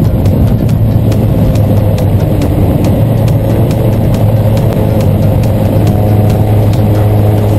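Sport motorcycle engine running at a steady, held speed, with an even, unchanging note.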